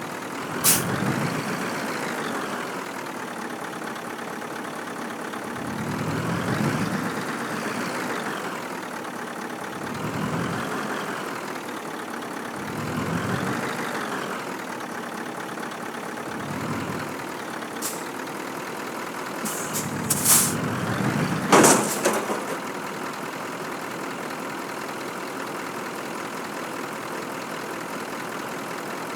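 Scania truck engine pulling on a rough track, its pitch rising and falling about five times as the driver works the throttle. Several short sharp hisses of released air come near the end, the loudest two close together.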